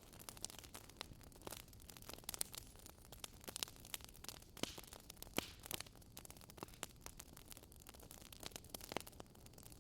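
Fire in a fireplace crackling: irregular sharp pops and snaps, several a second, over a soft steady hiss.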